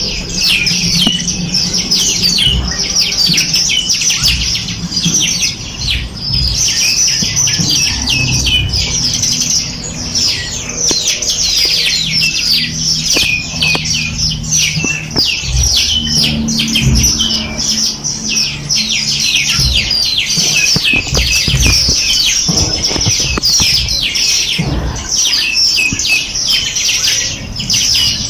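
Many small birds chirping and twittering together in a dense, continuous chorus of quick high notes, with a low rumble underneath.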